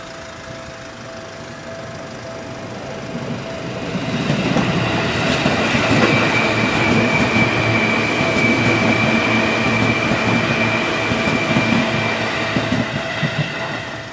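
Seibu 3000 series electric train passing over a level crossing. Its rumble builds from about two seconds in, then the wheels clack over the rail joints with a high steady whine while it goes by, and the sound falls away near the end. A level-crossing alarm's steady tone rings throughout.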